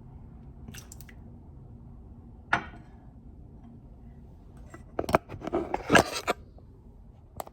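Kitchenware being handled: dishes and a spoon clinking and knocking. There are a few light clicks, a single ringing clink, then a run of clattering knocks near the end.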